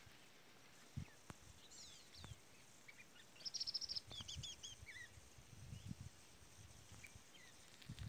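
Faint chirps and short trills from several wild birds, busiest about halfway through with a quick run of high notes, over a few soft low thumps.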